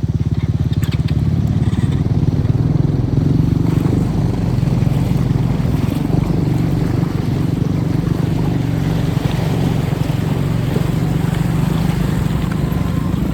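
Motorcycle engine running steadily throughout.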